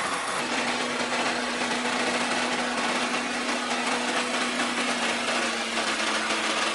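A machine running steadily, with a constant mechanical hum and a dense rushing noise over it; the hum settles in a little under half a second in.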